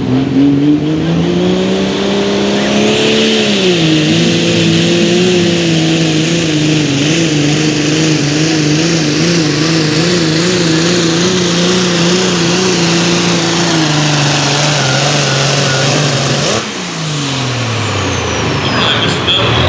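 Turbocharged diesel pulling tractor's engine at full throttle on a hook down the track: the pitch climbs over the first few seconds, drops, then holds with a wavering pitch. Near the end the engine winds down and the high turbo whine falls away.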